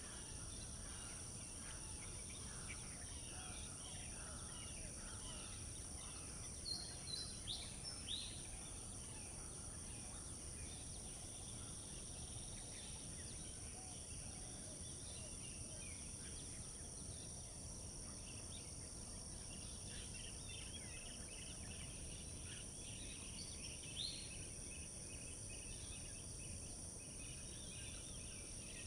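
Small birds chirping in the open, with a quick run of four sharp, loud chirps about seven seconds in and another single loud chirp around twenty-four seconds. Many fainter calls run throughout, over a steady high-pitched drone.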